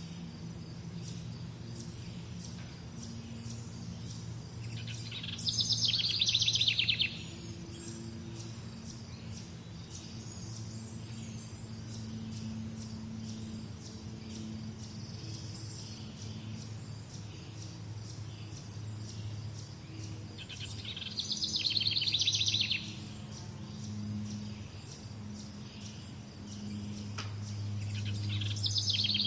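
Songbird singing a loud, rapid trilled phrase about two seconds long, three times: a few seconds in, about two-thirds of the way through, and again at the end. A steady low hum and faint high ticking run underneath.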